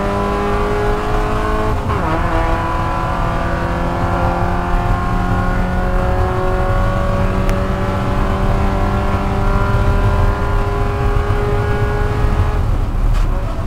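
Spec Miata's four-cylinder engine heard from inside the cabin under full throttle, shifting up about two seconds in, then climbing slowly in pitch as it pulls through the gear. Near the end the throttle comes off and the engine note drops.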